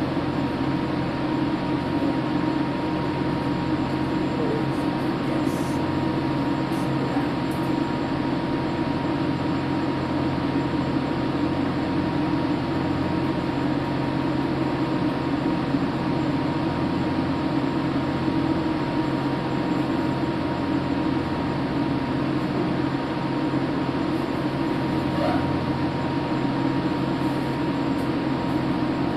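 Steady mechanical rumble and hum with a thin constant tone, unchanging throughout.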